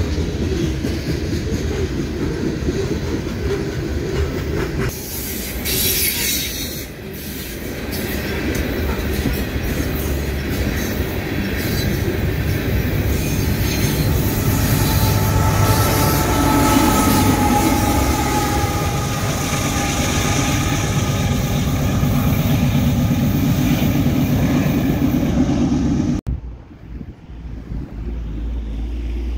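Freight train of coal hopper cars rolling past, with steel wheels clattering over the rail joints and a drawn-out wheel squeal about halfway through, as the rear pushing locomotive goes by. The rumble drops off suddenly near the end.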